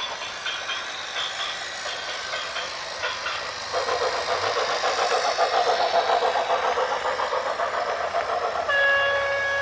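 Rapid rhythmic clattering and rattling that grows louder a few seconds in, then a loud, steady horn blast starting near the end.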